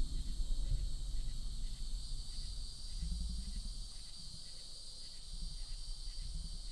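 Steady high-pitched insect chorus in the woods, over a low rumbling sound that eases off through the middle and swells again just after. The rumble is a quieter stretch of an unidentified deep noise that has kept going for about 15 minutes.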